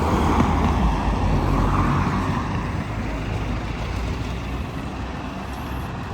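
Alexander Dennis Enviro 400 double-decker bus pulling away, its engine noise loudest at the start and fading steadily as it moves off.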